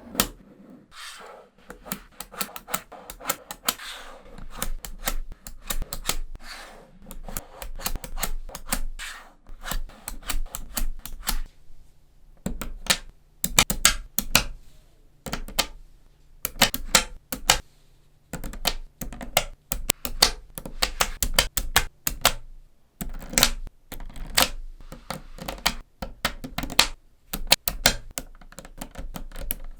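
Small neodymium magnetic balls clicking and snapping together as they are arranged by hand, in irregular clusters of sharp clicks: single snaps and quick rattling runs.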